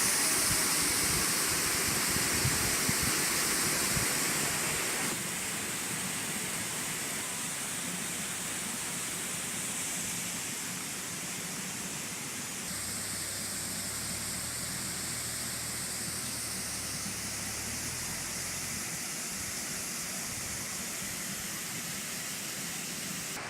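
Waterfall pouring, a steady rush of falling and splashing water that drops a little in level about five seconds in.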